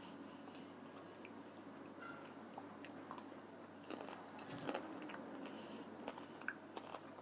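A person chewing fried chicken wings, with crunching bites and small mouth clicks, busiest about four to five seconds in.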